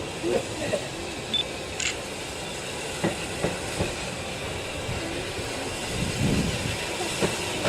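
A train running on the line, a steady rumble broken by sharp clicks and knocks every half second or so at times.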